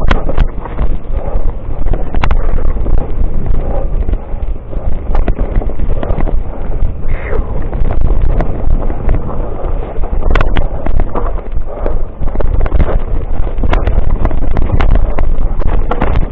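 Wind buffeting the microphone over the rattle of a mountain bike running downhill on rough trail, with sharp knocks and clatters at irregular moments as it hits roots and rocks.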